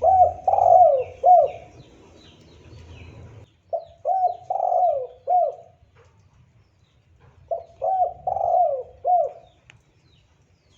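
Spotted dove cooing: three phrases of four to five coos each, about four seconds apart. Faint chirps of small birds in the first few seconds.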